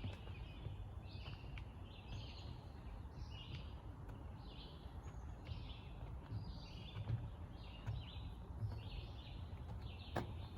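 Birds chirping in woodland: short raspy chirps repeating about once a second, over a low rumble with soft footsteps on the trail.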